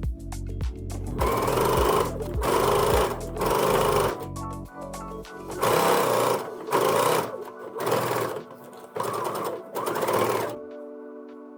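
Sewing machine stitching in a string of short runs, starting and stopping, with rapid even ticks at the start. Background music plays underneath.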